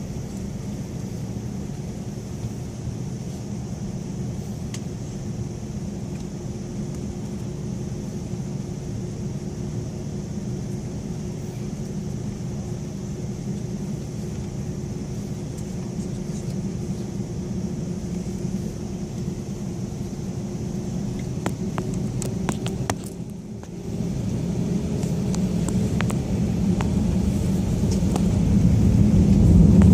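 Airliner heard from inside the cabin: a steady engine hum and low rumble while taxiing. About six seconds from the end the hum rises slightly in pitch and the rumble grows steadily louder as the engines spool up for takeoff, with scattered rattles.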